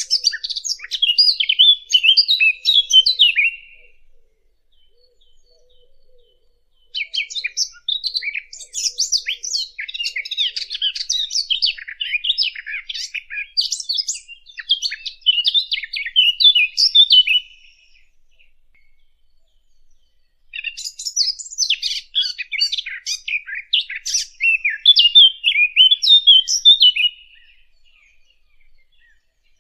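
Fig bird (the small warbler called 'asfour al-teen' and lured by hunters) singing a rapid, jumbled, warbling song in three long bouts, with pauses of a few seconds between them.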